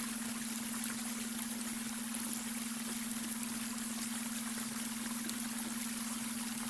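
A babbling brook running steadily, with a constant low hum underneath: the beta brainwave tone mixed into the water sound.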